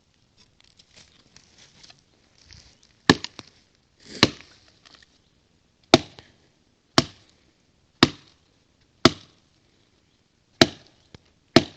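Kukri blade chopping into dry standing deadwood with angled blows to cut a notch: eight sharp chops, the later ones coming about once a second, after some faint rustling.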